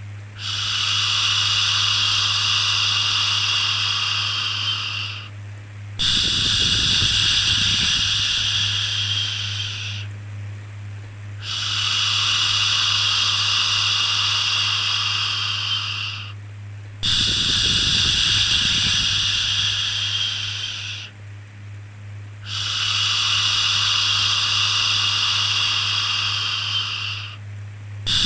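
A voice making long, steady 'shhh' shushing sounds, five in a row about every five and a half seconds, with brief gaps between them, over a steady low hum.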